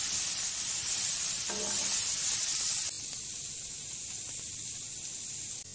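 Mixed vegetables (potato, peas, carrot) sizzling in a hot pan as a spoon stirs them. About three seconds in the sound cuts to a quieter, steady hiss of milky tea heating in a steel saucepan.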